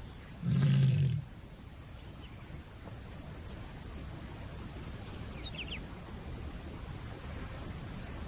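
A lioness in heat gives one short, low, moaning call about half a second in, calling males to her. A steady low background with a few faint high chirps follows.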